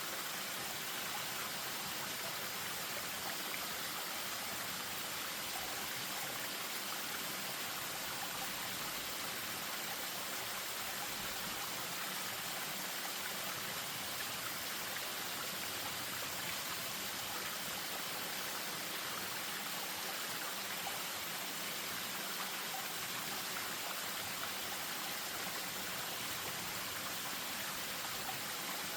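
Spring-fed stream splashing over a small waterfall: steady, even rushing and trickling water that stays the same throughout.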